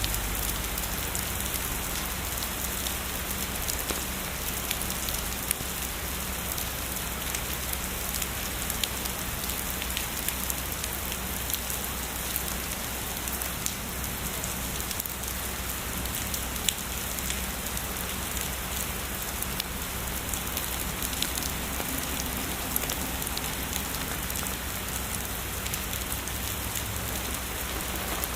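Heavy rain falling steadily, with many small sharp drop ticks in the constant hiss.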